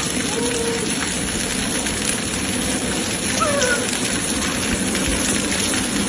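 Heavy rain falling, a steady, even hiss. A brief faint wavering sound comes through about three and a half seconds in.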